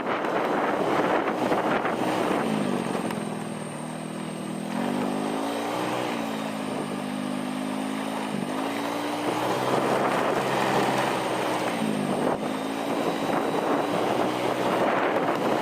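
Motorcycle engine running under way, its pitch dropping and rising several times as the throttle is eased and opened, with wind rushing over the microphone.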